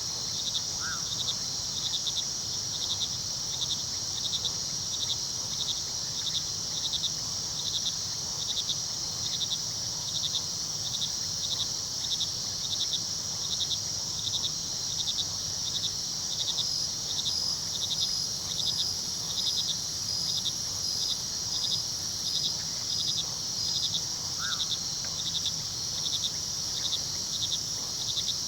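Crickets chirping in a steady rhythm, about two chirps a second, over a continuous high insect trill. A second cricket with its own evenly spaced chirp joins a little past halfway. A faint low rush of river water runs underneath.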